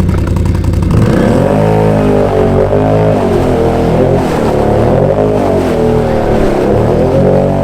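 Can-Am Outlander ATV's V-twin engine revving hard, its pitch rising and falling over and over as the ATV struggles through deep mud. It starts as a low rumble and begins to rise about a second in.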